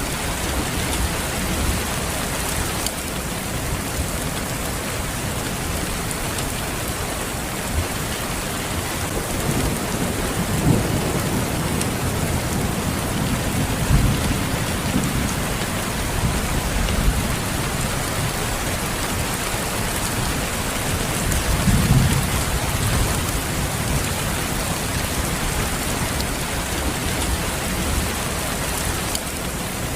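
Steady rain falling in a thunderstorm, with low rolls of thunder that swell a few times, loudest about two-thirds of the way through.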